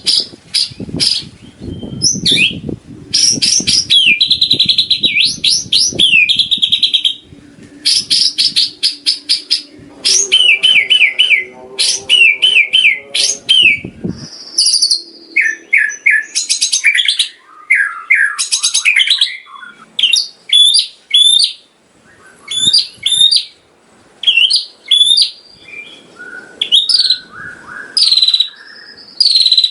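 White-rumped shama (murai batu) singing a long, varied song: rapid trills, quick runs of repeated notes and rising and falling whistles, with the mimicked phrases of other birds that make up its learned repertoire. A low rumble lies under the song for the first half and stops about halfway through.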